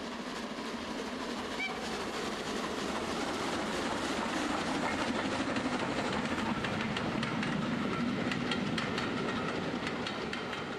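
A train passing, its wheels clicking over rail joints, swelling in the middle and fading away near the end.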